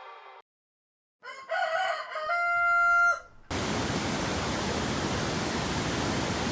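A rooster crows once, a rising call that ends on a long steady note. About half a second later a steady, even rushing noise begins and cuts off abruptly.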